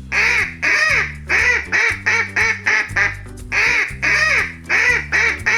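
Duck quacking repeatedly in quick runs of several quacks, with short pauses between the runs, over a steady background music track.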